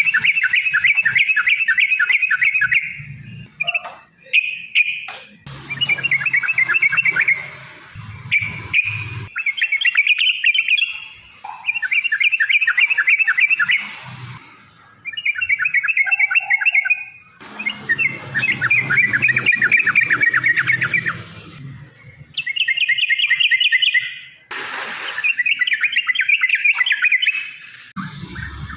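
Yellow-vented bulbul singing in repeated bouts of rapid chattering notes, each bout a few seconds long with short pauses between. This is the long, fast 'ropel' song used as a lure to make other bulbuls answer.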